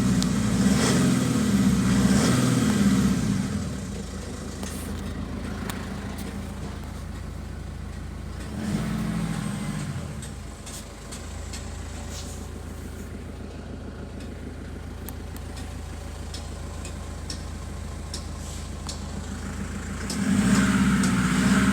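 Mitsubishi Triton 3.2-litre four-cylinder turbo-diesel engine running, revved up three times (at the start, about nine seconds in, and again near the end) and settling back to a steady idle in between.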